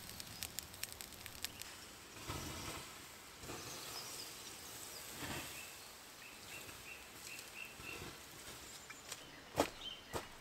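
Quiet woodland ambience with small scattered clicks and rustles of handling, a bird giving a short run of high chirps about two-thirds of the way in, and a sharper click near the end.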